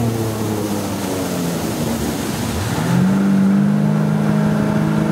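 Ski-boat inboard engine running with its pitch drifting down. About two and a half seconds in it revs up, then holds a louder, steady drone over the rush of water and wind.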